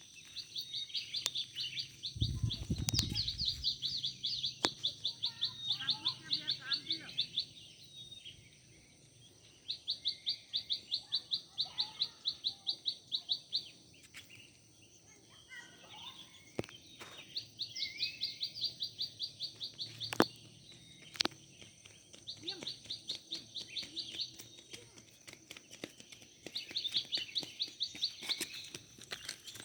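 Wild birds singing in a dawn chorus: one bird repeats a rapid series of sharp high notes, about five a second, in bouts of two to six seconds, about six bouts in all, with softer chirps from other birds between. A steady high-pitched whine runs underneath, and a low thump sounds about two seconds in.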